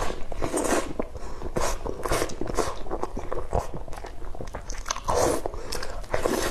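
Close-miked eating: chewing with wet mouth smacks and clicks and some crunchy bites, in an uneven run.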